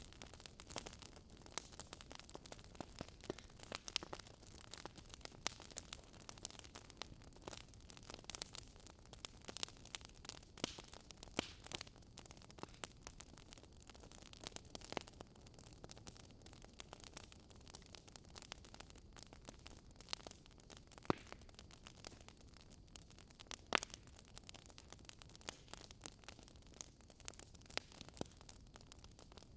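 Wood fire crackling: irregular sharp pops and snaps from burning wood over a steady low hiss.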